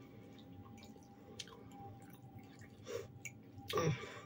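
Quiet eating sounds: closed-mouth chewing of fried potatoes, with a few faint clicks of a fork against the bowl and a short louder rustle near the end.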